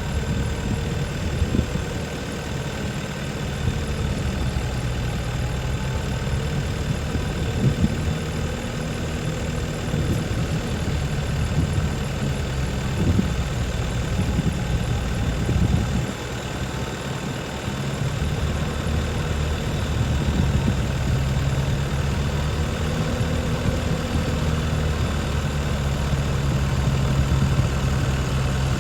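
Farm tractor engine running steadily while tilling a muddy rice field, with a few short knocks. The engine drops off briefly about halfway through, then picks up again.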